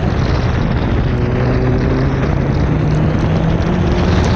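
Car engine running under load at a fairly steady pitch that creeps up near the end, heard from outside the body, under a dense hiss of wind buffeting and tyres throwing spray off standing water.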